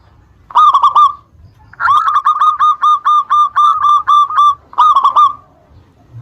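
Local zebra dove (perkutut) singing its cooing song: a short phrase about half a second in, then a long run of quick, evenly repeated coo notes lasting nearly three seconds, and another short phrase near the end.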